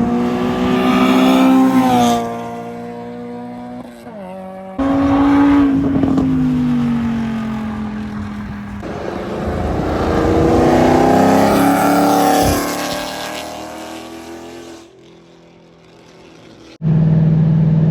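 Car engines accelerating hard in several short cut-together clips, the engine pitch rising and falling through the gears. Near the end a steady engine drone takes over.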